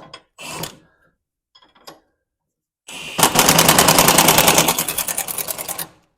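An impact wrench runs for about three seconds with a rapid, even hammering, loud and steady, easing off slightly partway through, then cuts off. A couple of brief knocks come first.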